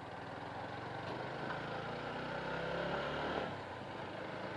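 Motorcycle engine running under way, its pitch climbing gradually for a few seconds and then dropping back as the throttle eases, with road and wind noise.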